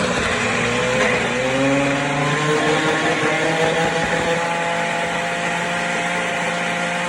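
Pampered Chef Deluxe Cooking Blender running on its smoothie setting, blending a smoothie in the smoothie cup. A loud, steady motor whine whose pitch rises a little and settles about two to three seconds in.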